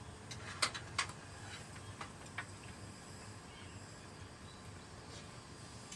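Four light clicks in the first two and a half seconds, then a faint steady background hum.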